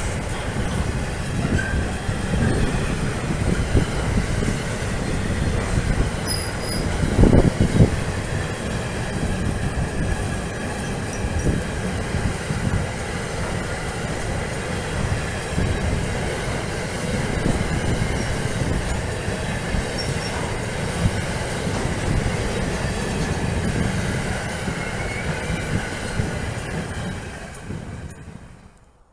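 Freight train of car-carrier wagons rolling past, with steady wheel rumble and clatter on the rails and some wheel squeal. The sound fades out near the end.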